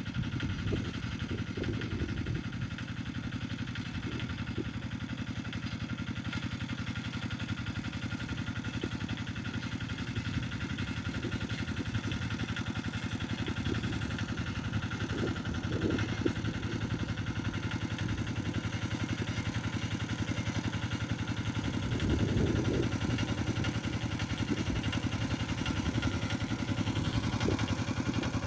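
Tractor engine running steadily under load while pulling a plough, with a few brief swells in level.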